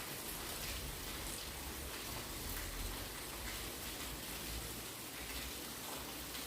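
Fairly heavy rain falling steadily, an even hiss with scattered drop ticks.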